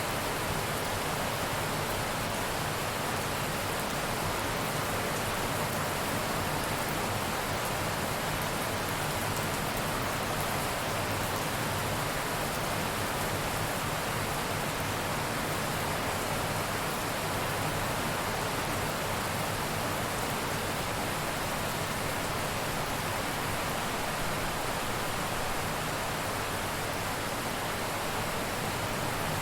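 Steady rain falling, an even hiss of dense rainfall without pauses or thunderclaps.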